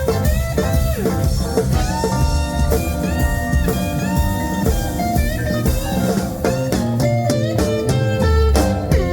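Live blues band playing an instrumental break: a lead guitar plays held and bent notes over drums.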